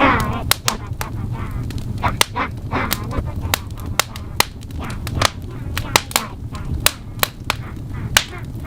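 Wood fire in a fireplace crackling, with frequent sharp pops over a steady low rumble and a few brief wavering hissing tones.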